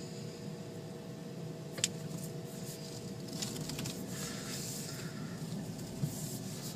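Steady low hum of a car running, heard from inside the cabin, with a sharp click about two seconds in and a few seconds of hissing, rustling noise in the second half.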